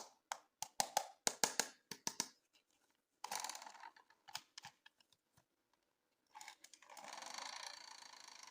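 Plastic toy packaging being handled during unboxing: a quick run of sharp clicks and taps, then crinkling and rustling near the end.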